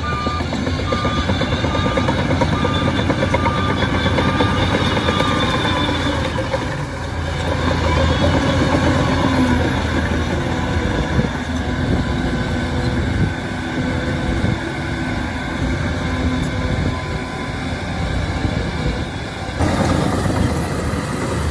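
Heavy diesel engine of a Shantui crawler bulldozer running steadily. For the first five seconds or so a reversing alarm beeps at an even pace, about one and a half beeps a second.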